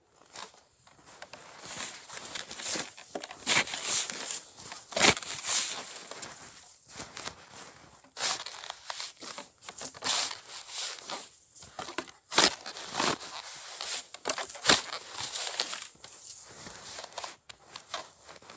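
Snow crunching and scraping in irregular strokes, with a few louder ones.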